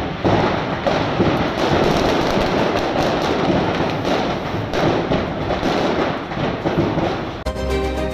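Firecrackers in a burning shop going off in a dense, continuous crackle of rapid small bangs. Music takes over near the end.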